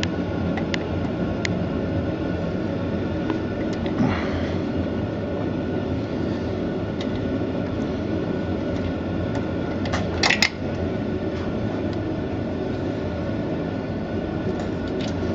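Metal parts and hand tools clinking now and then as the old coupler plate is worked off a boat engine's bell housing, with one louder metallic clank about ten seconds in, over a steady low background hum.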